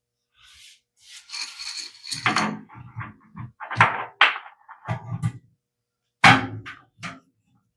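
Metal parts of a gas water heater's burner access being handled and fitted back in place: a short scrape about a second in, then a series of irregular knocks and clanks, the loudest near the end.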